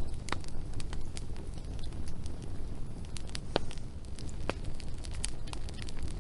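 Wood fire burning with a steady low rumble and irregular sharp crackles and pops of burning logs.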